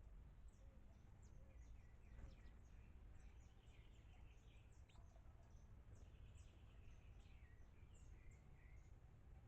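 Faint chirps and calls of several small birds at a feeder, many short high notes overlapping, with a quick trill a few seconds in and another past the middle, over a steady low rumble of background noise.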